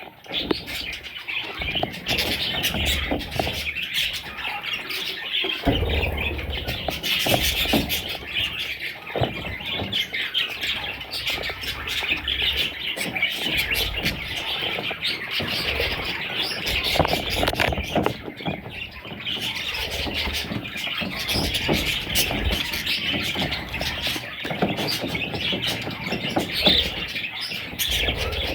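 Budgerigar chicks calling continuously in a dense, raspy chorus of rapid chirps, with occasional low bumps.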